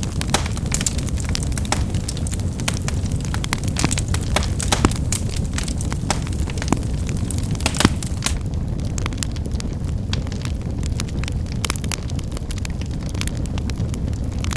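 Wood fire burning with a steady low rumble and many sharp crackles and pops as the firewood snaps, a few louder snaps among them.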